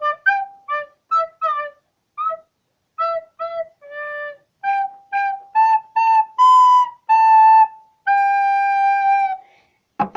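A recorder being played: a run of short, separately tongued notes, then a few longer held notes, the last one held for over a second.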